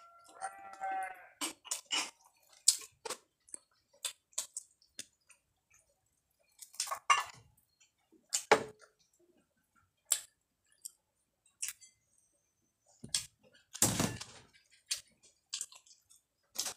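Close-up eating sounds of a person chewing rice and young jengkol by hand: irregular wet mouth clicks, smacks and crunches, with the biggest crunches about 8 and 14 seconds in.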